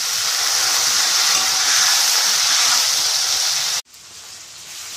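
Chopped tomatoes and curry leaves sizzling loudly in hot oil in an aluminium kadai. The sizzle cuts off abruptly nearly four seconds in, then carries on more faintly.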